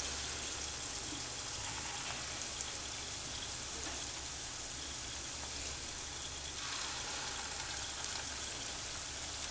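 Urad and moong dal pakodas deep-frying in hot oil, sizzling steadily.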